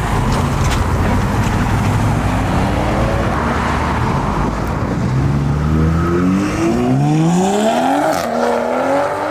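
A car's engine rumbling at low revs, then accelerating hard from about halfway through, its pitch climbing, dropping back at each upshift and climbing again.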